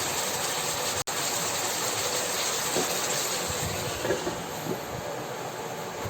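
Food sizzling and hissing steadily in hot oil in a pan, with a few small knocks, and a brief break about a second in.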